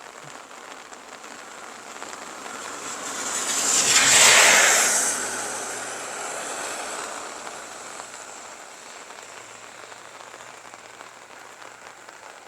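Steady light rain falling. A loud rushing hiss swells to a peak about four seconds in and fades away over the next few seconds.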